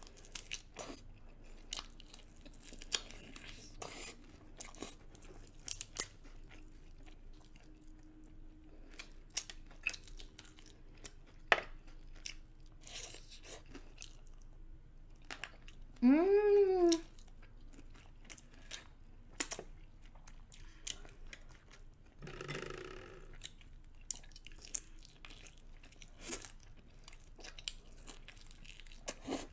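Close-up eating of sauce-coated chicken wings: wet chewing, biting and crunching of skin and bone, with sticky mouth smacks and clicks. About halfway through comes a short, loud hummed "mm" that rises and then falls in pitch.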